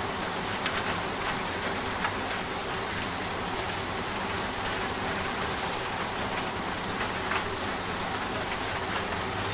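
Steady rain falling on a hard surface: a dense, even hiss with scattered louder drops.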